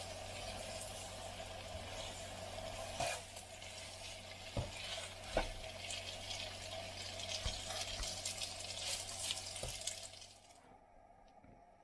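Steady hissing kitchen noise over a low hum, with a few sharp knocks, stopping about ten and a half seconds in.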